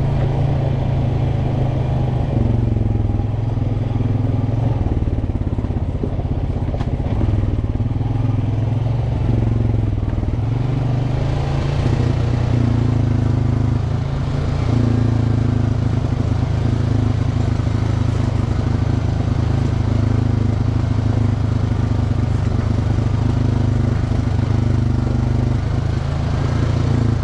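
ATV (four-wheeler) engine running steadily under a rider on a rough trail, its pitch stepping up and down every few seconds as the throttle changes.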